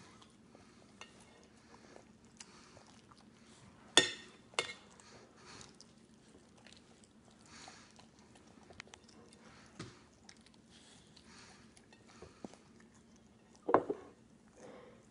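Cereal being eaten: quiet crunching and chewing, broken by sharp clinks of a spoon or dish. The loudest are two clinks about four seconds in and a short cluster near the end.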